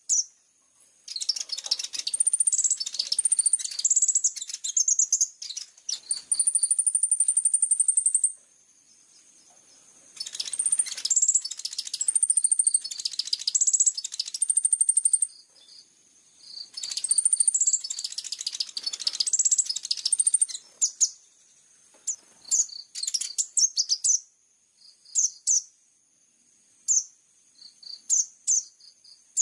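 Olive-backed sunbird (kolibri ninja) singing: three long, high, rapid phrases of chirps, trills and repeated notes, one holding a long steady trill, then shorter scattered chirps through the second half.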